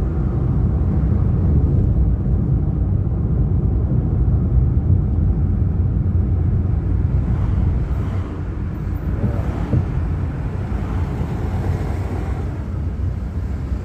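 Car road and engine noise heard inside the cabin while driving: a steady low rumble that eases slightly about eight seconds in.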